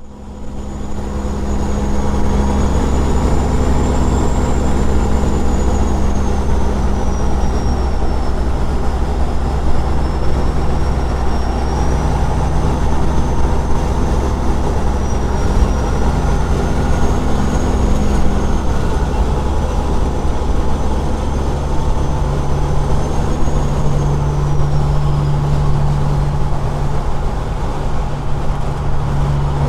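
Straight-piped Caterpillar 6NZ inline-six diesel of a semi truck running under way, a steady loud drone whose pitch shifts a few times, with a thin wavering high whine above it. It fades in over the first second.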